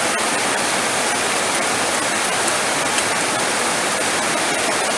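Heavy rain falling steadily: a dense, even hiss of downpour with faint scattered drop ticks in it.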